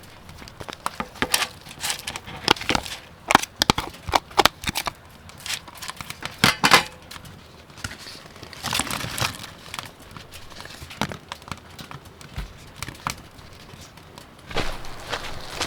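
Objects being handled close up: irregular sharp clicks and taps mixed with rustling, with a longer rustle about nine seconds in.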